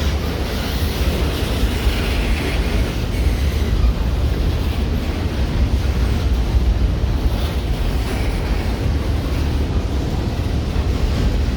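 A passing train's steady low rumble, mixed with wind buffeting the microphone.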